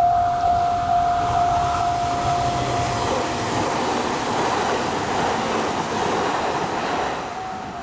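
Japanese level-crossing alarm ringing in fast, steady repeated dings while a JR East E721-series electric train passes over the crossing. The train's rumble builds, its wheel and rail noise swells about three seconds in and drowns out the alarm, then fades near the end as the alarm rings clearly again.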